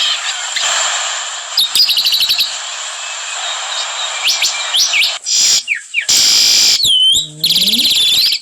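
Small birds chirping and trilling, in many short high chirps and quick sweeping notes, with a fast buzzy trill near the end.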